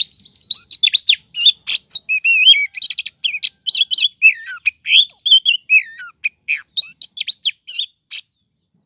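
Female oriental magpie-robin calling: a rapid run of varied chirps and whistled notes that slide up and down, the kind of call used to lure males. It cuts off suddenly about eight seconds in.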